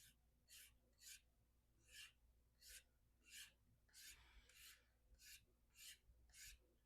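Knife blade stropped in quick, faint strokes on a hard leather strop loaded with 3 micron diamond emulsion, about ten soft swipes at roughly one and a half a second, working out a small chip at the tip of the edge.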